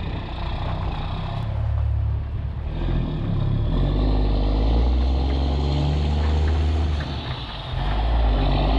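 Mack semi truck's diesel engine running under load as the rig drives, a steady low drone. It eases off briefly about seven and a half seconds in, then picks up again.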